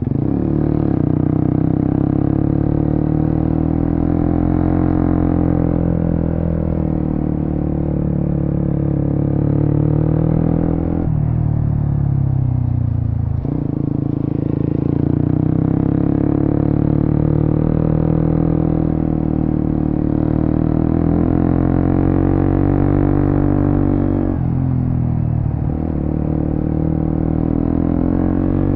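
Suzuki GSX-S150's single-cylinder engine running through an aftermarket Quinze Big Volume exhaust while riding. The engine note climbs and eases with the throttle, dropping sharply twice, about a third of the way in and again near the end, before rising again.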